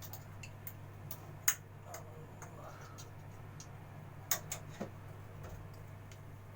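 Irregular sharp clicks and taps, the loudest about one and a half seconds in and just after four seconds, over a steady low hum.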